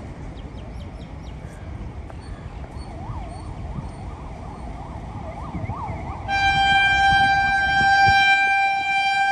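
A long, steady blast of a railway locomotive horn starts about six seconds in and is still sounding at the end, over a low rumble. Before it, a faint warbling tone rises and falls over and over, like a distant siren.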